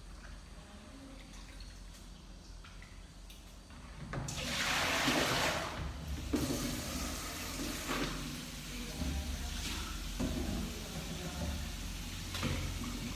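Rain falling, faint at first, then a sudden rush of heavier rain about four seconds in that carries on as a steady hiss with brief surges.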